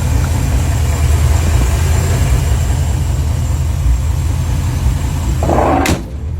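1996 Chevrolet 1500's 305 V8 idling steadily through its MagnaFlow cat-back exhaust, a deep low rumble. About five and a half seconds in a short burst of noise comes, and the sound then drops abruptly to a quieter engine sound.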